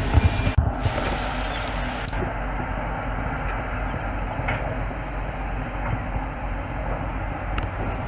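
A steady engine rumble, with a few low knocks in the first second.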